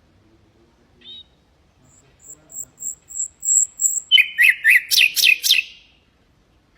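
Common nightingale singing one phrase: a short note about a second in, then a row of thin, very high repeated notes, then a loud, rapid run of sharp, clicking notes that ends about a second before the next phrase.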